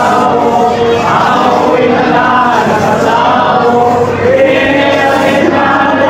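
A group of voices singing together in a chant-like devotional song, steady and loud throughout.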